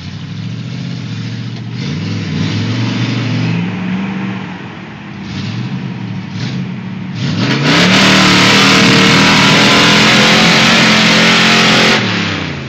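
Ford 4x4 pickup truck engine revving hard while pulling a stuck truck through mud, its pitch rising and falling. About seven and a half seconds in it goes to a held, very loud full-throttle run with a loud rushing noise over it for about four seconds, then drops off sharply.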